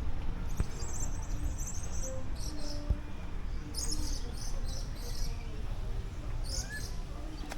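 Small birds chirping in short high bursts, again and again, over a steady low rumble.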